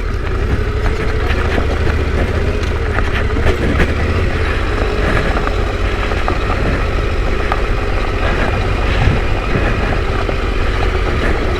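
Yamaha Ténéré 700's parallel-twin engine running at low, steady revs as the bike moves off along a rough track, with scattered knocks and clicks throughout.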